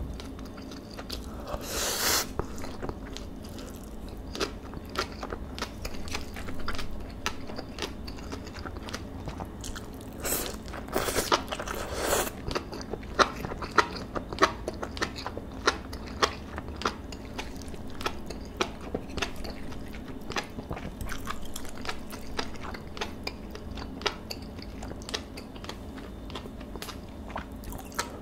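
A person chewing rice and marinated beef bulgogi with mushrooms: a steady run of wet mouth clicks and chewing. There are louder, longer noisy mouth sounds about two seconds in and again around eleven to twelve seconds in.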